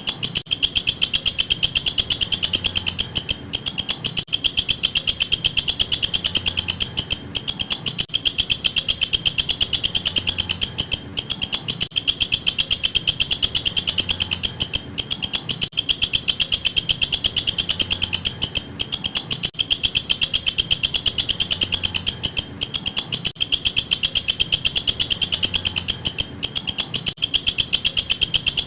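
Walang kecek katydid calling: a loud, high-pitched trill of very rapid, even pulses that breaks off briefly every few seconds and starts again.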